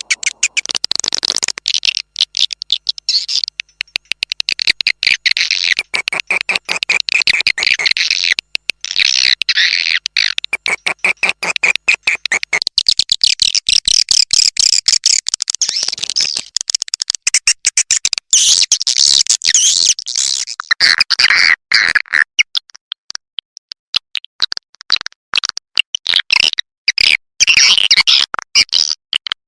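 Swiftlet call recording used as a lure for swiftlet houses: a dense, fast chatter of chirps and clicks from edible-nest swiftlets, high-pitched throughout.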